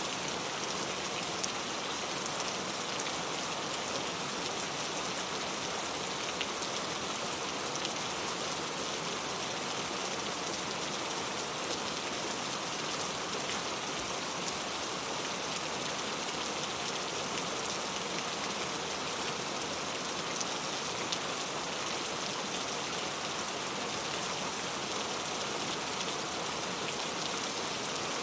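Steady rainfall, an even hiss of drops with faint scattered patter.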